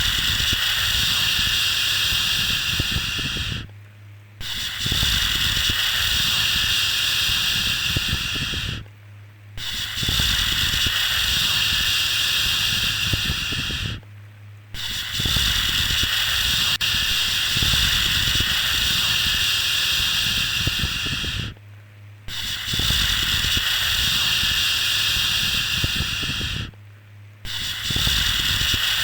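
Repeated long 'shhh' shushing sounds for soothing a baby to sleep. Each is steady and lasts about four to seven seconds, with a pause of under a second between them.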